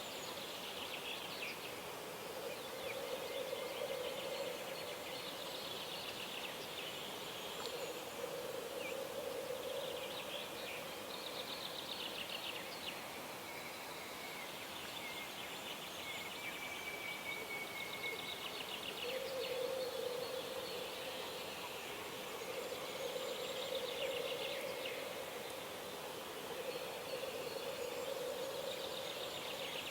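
Birds singing in the dawn chorus by a wilderness pond: repeated fast trilling songs and a brief clear whistle about halfway through, with a lower drawn-out call coming back every few seconds.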